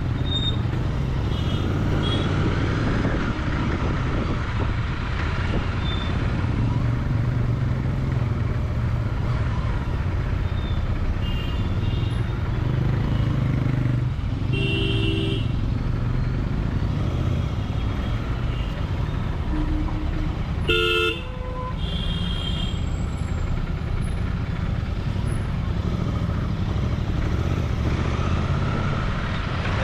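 Royal Enfield Continental GT 650's parallel-twin engine running steadily while riding through traffic. Vehicle horns toot several times; the loudest is a short blast about two-thirds of the way through.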